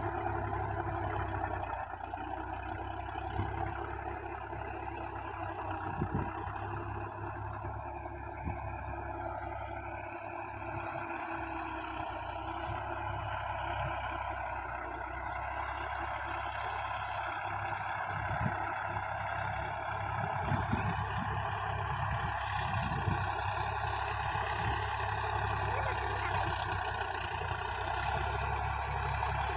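Tractor diesel engine running steadily, with a few faint knocks.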